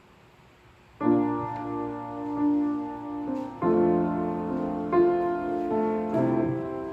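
Piano playing slow, held chords as the introduction to a worship song, starting about a second in and changing chord three times.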